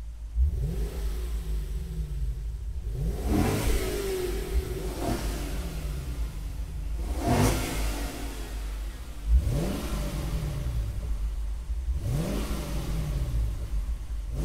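Lexus V8 engine revving again and again, every two to three seconds: each rev is a quick rise in pitch followed by a slower fall, over a steady low rumble.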